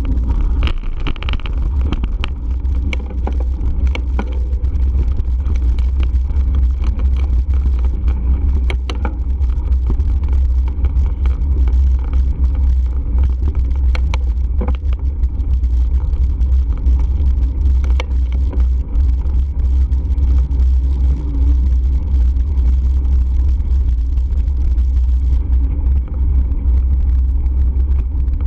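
Heavy wind buffeting on the microphone of a camera riding on a moving bike: a steady, loud low rumble with scattered clicks and rattles throughout.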